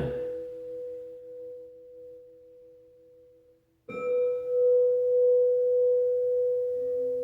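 A singing bowl rings with a steady, sustained tone and a fainter pulsing tone beneath it. It fades to near silence, then a fresh ring comes in suddenly just before four seconds in and holds strongly.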